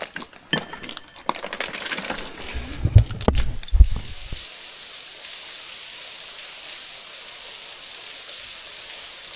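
Loose slate clinking and knocking, with a few heavy thumps about three to four seconds in. Then it cuts abruptly to a steady hiss of falling water, like rain.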